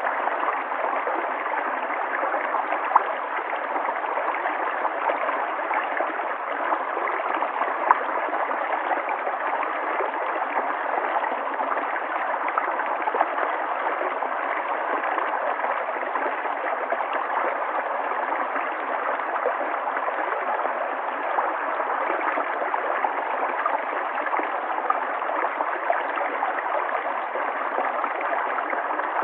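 River water flowing steadily, a continuous rush and gurgle with a few brief splashes.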